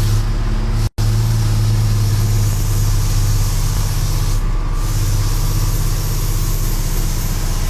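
Truck engine running steadily while driving, a low even drone, with a momentary cut in the sound about a second in.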